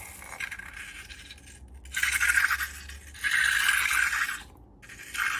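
Slime being squeezed and worked by hand, giving two crackly, crunchy bursts of about a second each and a third starting at the very end.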